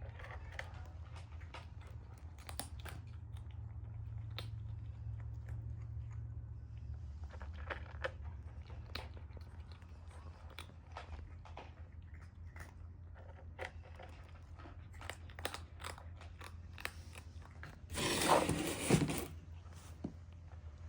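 Kitten eating, with many quick crunches and bites of its food close to the microphone, over a steady low hum. A louder burst of noise lasts about a second near the end.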